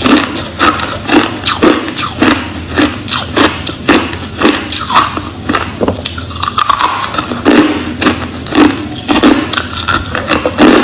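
Crushed ice being chewed close to the microphone: loud, sharp crunches, about two to three a second.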